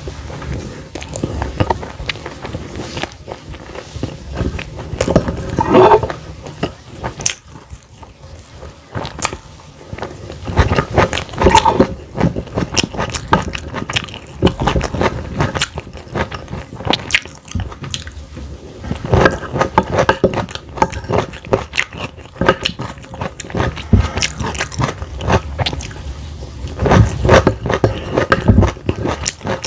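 Close-up eating sounds: biting and chewing fried egg and vegetables such as broccoli, cauliflower and carrot, with wet mouth noises and irregular crunches and clicks.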